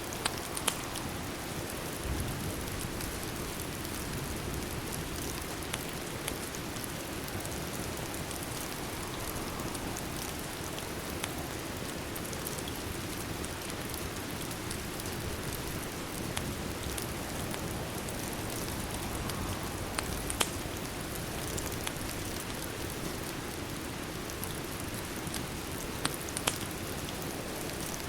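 Steady rain with a constant even hiss, mixed with a fireplace that gives a few sharp crackles and pops scattered through it.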